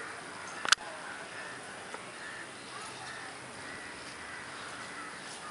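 Outdoor ambience with faint bird calls over a steady background hiss, and one sharp click under a second in.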